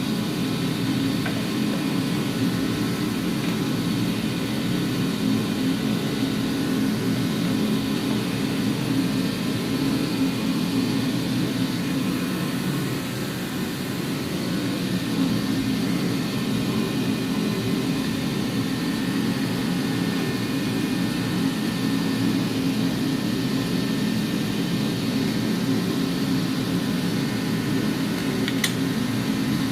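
Steady mechanical drone with several constant hum tones, with one sharp click near the end.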